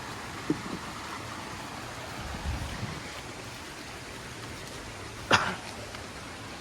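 Steady outdoor background hiss with a few handling bumps: a soft thump about half a second in, a low rumble midway, and one sharp knock a little past five seconds.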